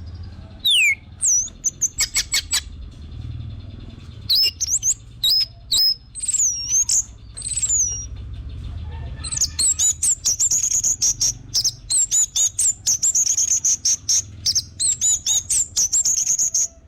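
Orange-headed thrush (anis merah) singing a varied song of high whistled glides and sharp chips, breaking into a fast run of repeated notes about ten seconds in, over a low steady hum.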